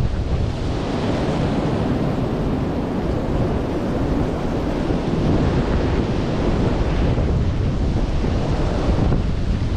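Strong gusty wind buffeting the microphone and rushing through the trees, a steady heavy rumble and hiss.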